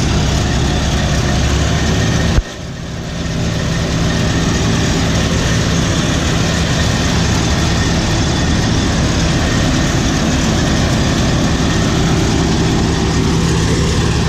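John Deere 3300 combine running steadily while harvesting wheat: a loud, even drone of engine and machinery. About two seconds in, a sharp click is followed by a brief dip in loudness that comes back over a second or so.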